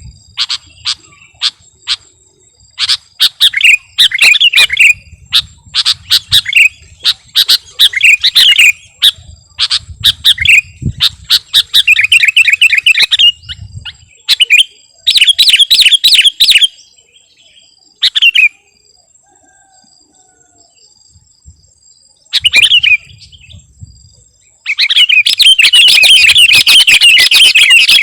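Sooty-headed bulbul (kutilang) singing loudly in bursts of quick, chirping phrases. The bird pauses for a few seconds past the middle, then sings one long, dense run near the end.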